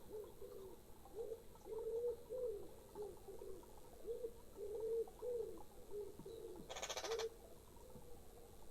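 A pigeon cooing: a long run of short, low notes, each rising and falling, one after another, which stops about seven seconds in. There is a brief harsh burst at about the same moment.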